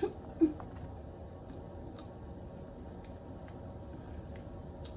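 A person chewing a big mouthful of double cheeseburger with her mouth closed. There are two short hummed "mm" sounds right at the start, then faint, scattered clicks of chewing.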